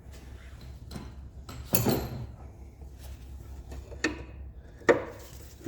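A few short metallic clinks and knocks of hand tools against metal parts, the loudest near the end, over a low steady hum.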